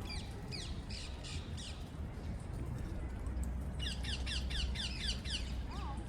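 Parakeets calling in runs of rapid, shrill squawks: one run at the start and another about four seconds in, over a low steady rumble.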